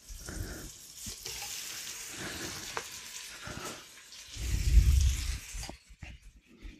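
Tomatoes going into onions frying in hot oil in a pressure cooker pot, setting off a steady sizzle that fades out near the end. A burst of low thumping about four and a half seconds in is the loudest part.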